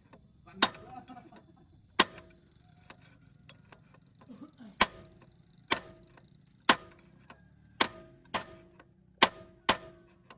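Hammer striking metal on a tractor gearbox being dismantled: about nine sharp blows at uneven intervals, roughly a second apart, each ringing briefly.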